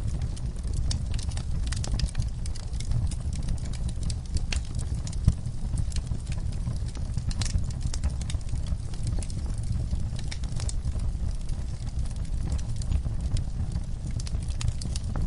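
Wood fire in an outdoor fireplace burning with a steady low rumble and frequent irregular crackles and pops, one sharper pop about five seconds in.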